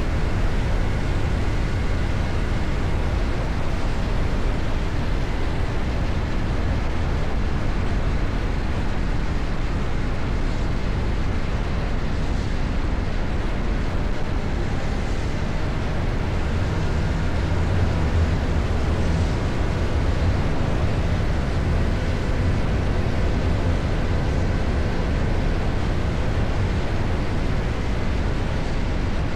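CFMOTO 675NK's three-cylinder engine running at a steady cruise, mixed with wind rush, growing slightly louder about two-thirds of the way in.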